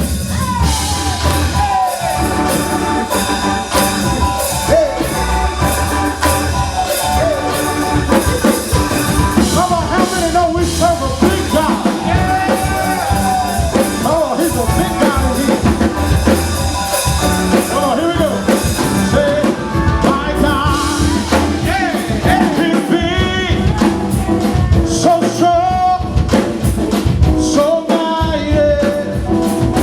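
Worship music: a singing voice over a band with a drum kit and bass, playing steadily.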